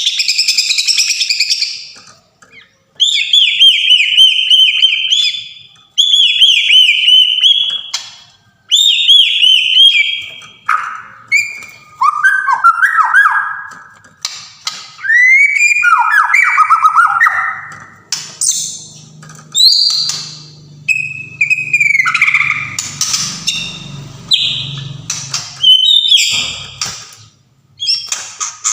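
White-rumped shama (Sumatran murai batu) singing: a run of loud, varied whistled phrases with short pauses between them. The phrases mix quick high warbles and trills with lower sliding notes.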